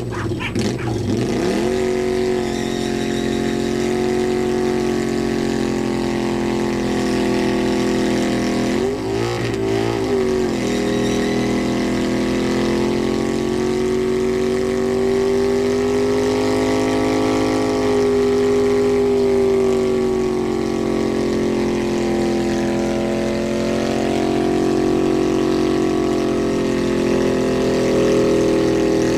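1995 Kawasaki VN800 V-twin with drag pipes held at high revs during a rear-tyre burnout. The engine note climbs in the first couple of seconds, dips briefly and climbs again around nine seconds in, then holds high with slight wavering.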